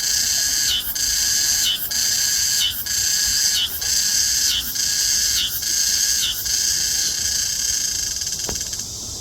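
Meimuna mongolica cicada singing: a loud, high buzzing call chopped into repeated phrases about once a second. It runs on unbroken for its last couple of seconds and then stops near the end.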